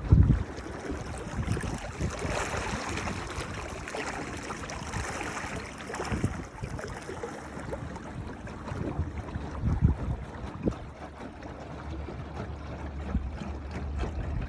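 Water rushing and splashing along the hull of a jon boat on the move, heaviest a few seconds in, with low rumbling buffets now and then.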